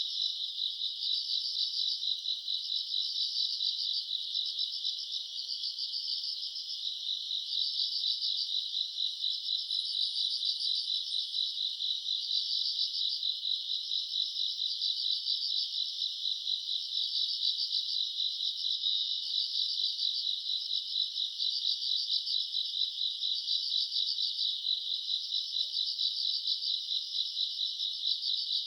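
Chorus of night-singing crickets and other grass insects trilling steadily, high-pitched, in fast pulsing phrases that overlap without pause.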